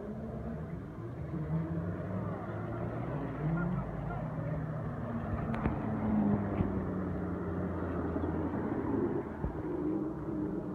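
Engines of parade cars rolling slowly along a wet street, a steady low engine note that shifts a little in pitch as the cars approach.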